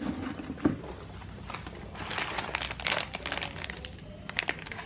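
Plastic snack wrappers crinkling and rustling as they are handled and opened, with scattered sharp crackles that grow busier about two seconds in.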